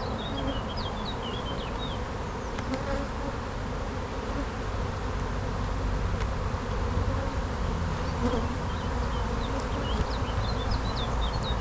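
Honey bee colony buzzing steadily around an opened hive as its frames are worked through. Short high chirps come in near the start and again toward the end.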